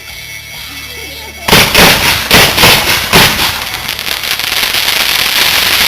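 Homemade aerial fireworks going off. About a second and a half in there is a rapid string of sharp bangs, followed by a dense crackling hiss that carries on.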